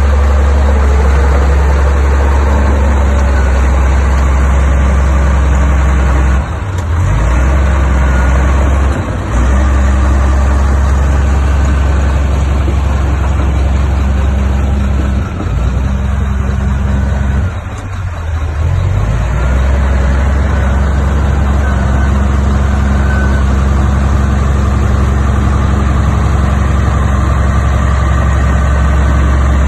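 Heavy diesel engine of earthmoving equipment running steadily with a deep, constant drone. The level drops briefly about four times.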